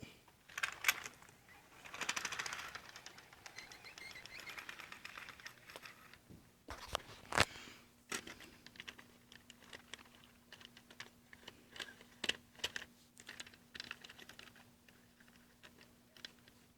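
HO scale model train clicking and rattling on its track: many light plastic-and-metal clicks, rapid at first and then scattered, with one louder click midway. A faint steady hum joins about six seconds in.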